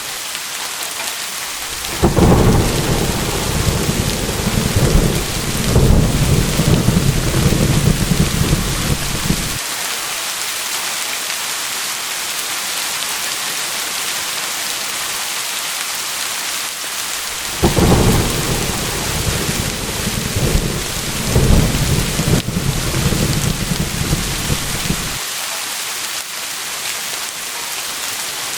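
Steady rain with two rolls of thunder. Each begins with a sharp crack, rumbles and swells for about seven seconds, then dies away, and the second comes about eight seconds after the first ends.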